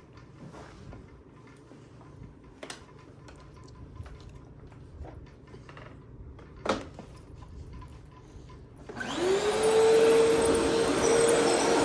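A few faint clicks and knocks, with one sharper click partway through. Then a vacuum cleaner is switched on about nine seconds in: its motor whine rises quickly and settles into a steady running tone over a loud rush of air.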